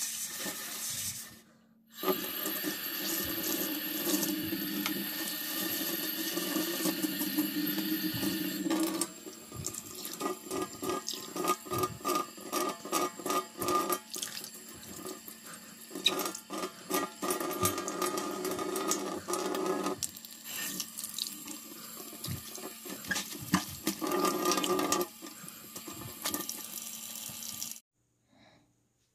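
Water running from a tap, steady at first, then in stretches broken by many short knocks and clatters of things being handled and rinsed under it.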